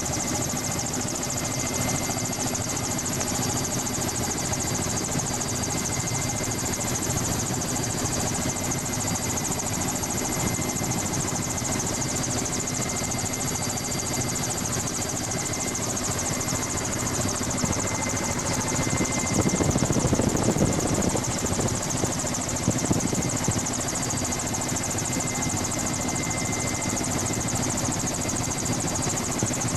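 Helicopter in flight, heard from on board: a steady engine and rotor drone with several steady whining tones. About twenty seconds in a louder rush of noise swells for a couple of seconds and then settles.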